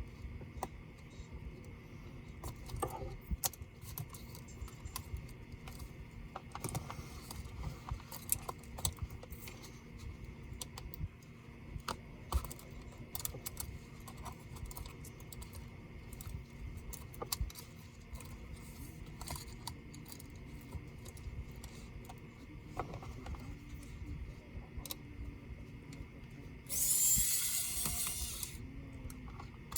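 Small irregular clicks, taps and light jingling of laptop parts and small tools being handled during disassembly, with a short hissing scrape about three seconds before the end.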